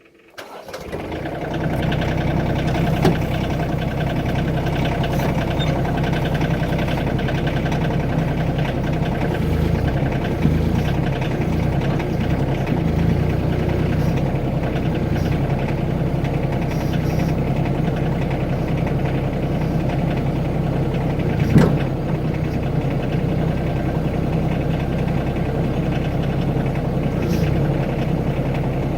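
Mini excavator's diesel engine starting up, then running steadily. There is a single sharp knock about three-quarters of the way through.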